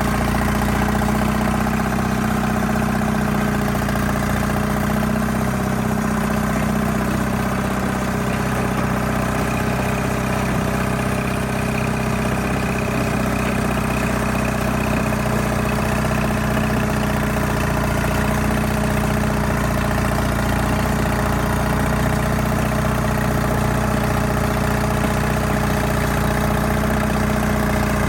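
Allis-Chalmers HD5 bulldozer's diesel engine idling steadily, warming up after a cold start.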